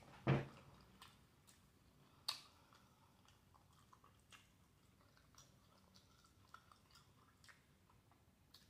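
Faint mouth sounds of a person chewing food, with a few soft, wet clicks spread over several seconds.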